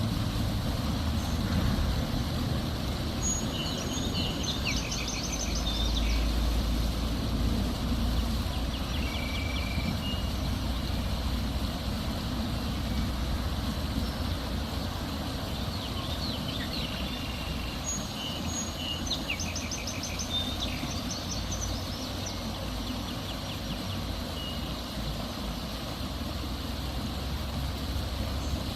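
Steady rain noise with a low rumble underneath, and a small bird singing two bursts of quick, repeated chirping trills, one a few seconds in and one about two-thirds of the way through.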